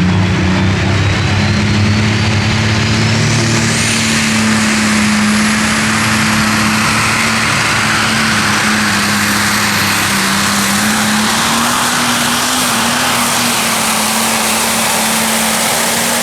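Modified pulling tractor's engines at full throttle, dragging the weight-transfer sled down the track. A loud steady engine note carries a high whine that climbs over the first few seconds, then holds.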